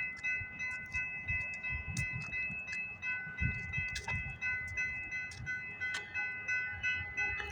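Grade-crossing bells ringing in a steady, even rhythm of about two strikes a second, over the low, uneven rumble of an approaching CPKC freight train.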